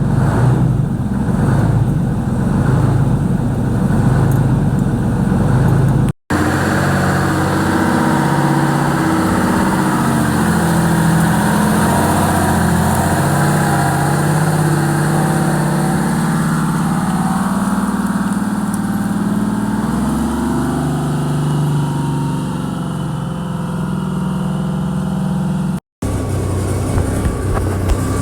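Two-stroke diesel truck engine running, its pitch rising and falling at times. The sound cuts out briefly twice.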